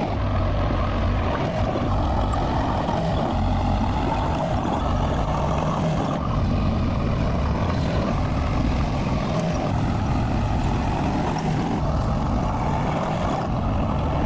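A bulldozer's diesel engine running steadily.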